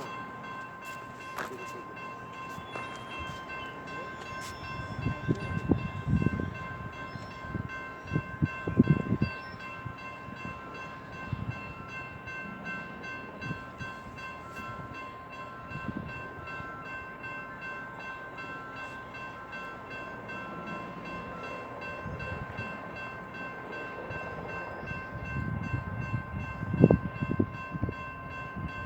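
Railroad level-crossing warning bells ringing steadily, with a fast, even rhythm. Low rumbling swells up twice, about a fifth of the way in and again near the end.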